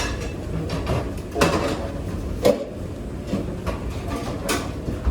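Cleanup clatter: three sharp knocks of things being handled and set down, over a steady low rumble.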